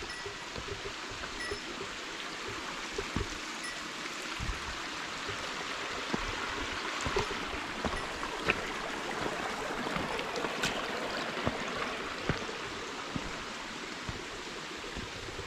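Steady rushing of a stream's flowing water, with a few faint clicks scattered through it.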